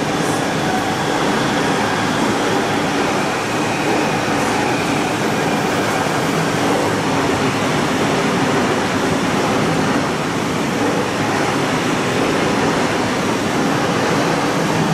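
ICE high-speed train running through at speed without stopping: a steady, loud rush of wheel-on-rail and passing-train noise with a few faint steady tones in it.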